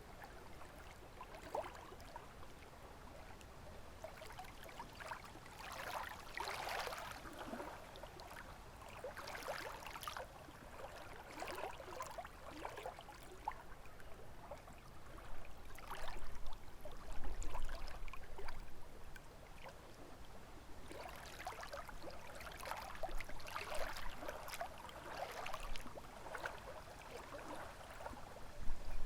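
Small lake waves lapping and splashing in irregular bursts that rise and fall every few seconds. At times a low wind rumble joins in, clearest around the middle and near the end.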